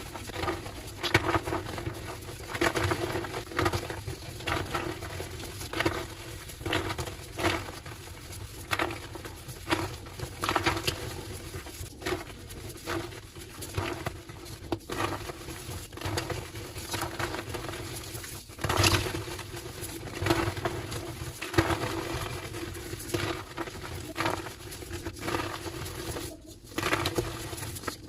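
Homemade gym chalk slabs being crushed, a run of squeaky, crumbly crunches that come irregularly, about one or two a second.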